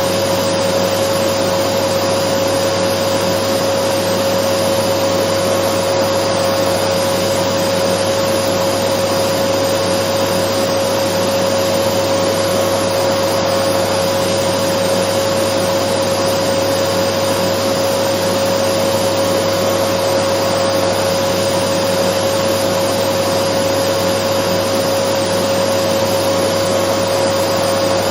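Dyson vacuum cleaner running steadily as a continuous white-noise drone: an even rush of air with a steady mid-pitched tone and a fainter high one, no change in speed.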